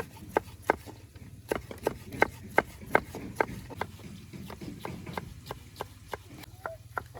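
Knife chopping on a cutting board: a rapid, even run of sharp knocks, about three a second, that thins out and gets weaker after about four seconds.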